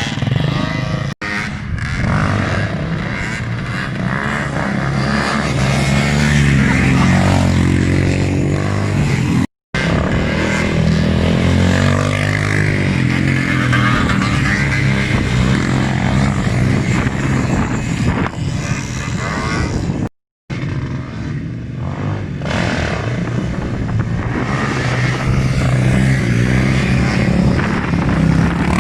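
Motorcycle and quad engines running and revving, rising and falling in pitch, across several clips joined by abrupt cuts with a moment of silence at each, about a second in, about ten seconds in and about twenty seconds in.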